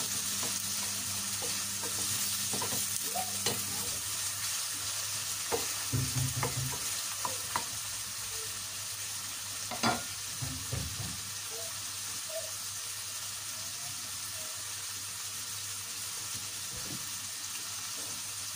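Beef and tomato pieces sizzling steadily in a stainless steel pan. A wooden spoon stirs them, with scattered knocks against the pan, until about ten seconds in; after that only the sizzle goes on.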